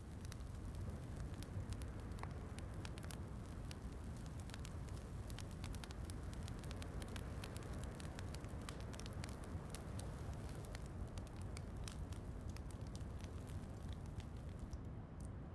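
Wood fire crackling in a fireplace, with frequent small sharp pops over a steady low rumble, mixed with the soft hiss of falling rain.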